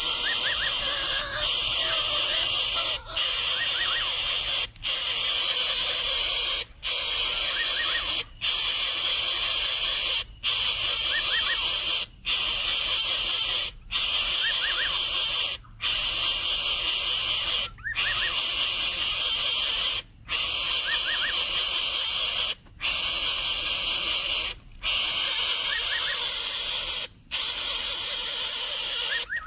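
Greater coucal nestling giving a loud, harsh hissing begging call in long rasping stretches, each broken by a short pause about every two seconds.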